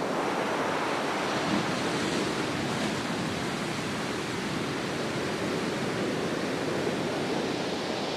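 Steady rushing water, an even wash of noise without pauses or distinct wave breaks.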